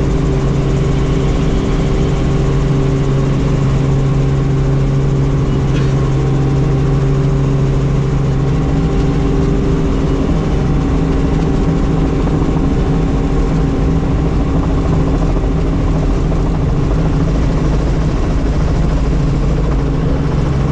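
Helicopter engine and rotor running with a steady, loud drone made of several even tones; the lowest tone drops away a little over 8 seconds in.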